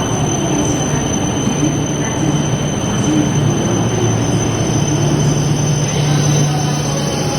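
Akita Shinkansen Komachi train running: a steady, loud rushing noise with a thin high whine held throughout.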